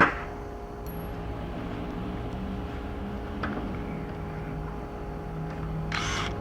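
Power drill running in short stretches, its motor hum stepping up and down in pitch as it bores small pilot holes for screws in thin sheet metal, with a brief harsh scrape near the end.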